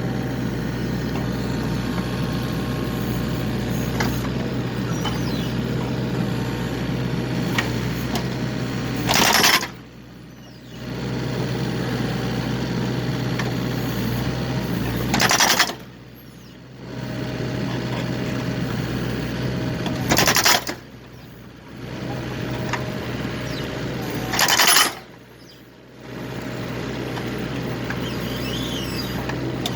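Excavator's diesel engine running steadily while it splits firewood, broken four times, about every five seconds, by a loud sudden noise, each followed by a second or so of much quieter sound.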